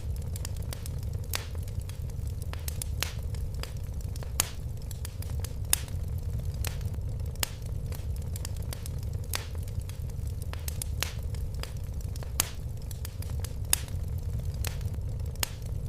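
Fire in a fireplace crackling: irregular sharp pops and snaps, a few louder than the rest, over a steady low rumble of the flames.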